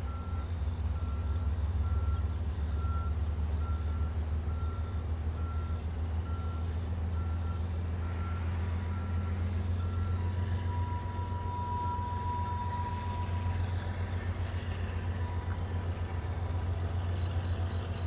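Steady low rumble of a slow-moving train. For the first ten seconds a high beep repeats a little more than once a second over it, and then a steady high tone sounds for about three seconds.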